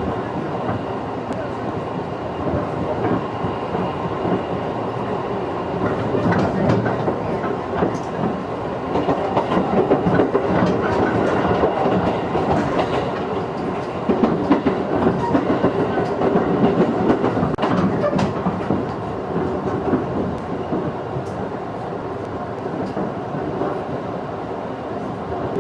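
Running noise of a 211 series electric train heard from inside the passenger car: a steady rumble with wheels clicking over rail joints, as the train nears its station stop. A faint steady whine creeps in during the second half.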